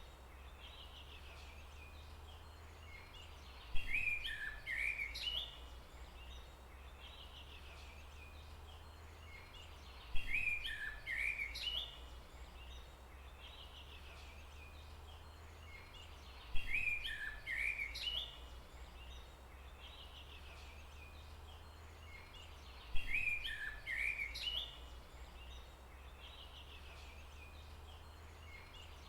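Bird song: the same short phrase of chirps and whistles, each opening with a sharp note, repeats four times at even intervals about six seconds apart, over a steady low rumble.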